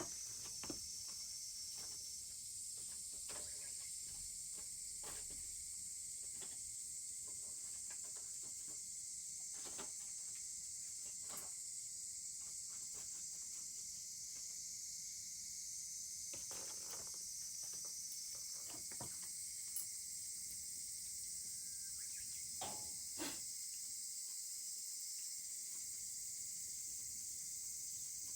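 A wood bonfire crackling with scattered sharp pops, a couple of them louder about twenty seconds in, under a steady high-pitched chorus of insects.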